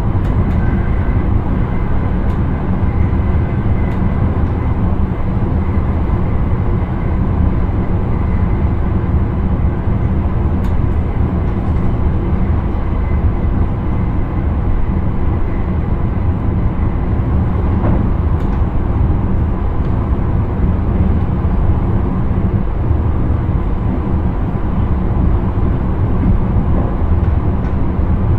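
Intercity train running steadily, heard from inside the driver's cab as an even low rumble of wheels on track and motors. A faint high tone sounds in the first few seconds, and a few faint ticks come through.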